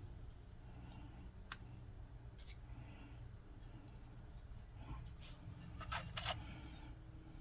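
Faint clicks and light scraping of small parts being handled on a workbench, with a quick cluster of sharper clicks about six seconds in, over a steady low hum.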